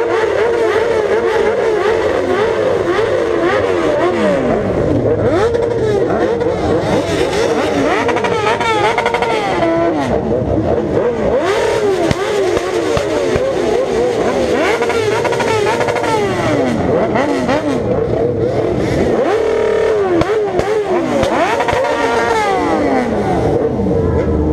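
Several sport motorcycles with inline-four engines revving together, their overlapping engine notes repeatedly rising and falling.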